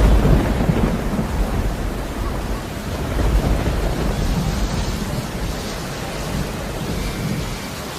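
Loud, steady rushing noise with a heavy low rumble, easing off toward the end.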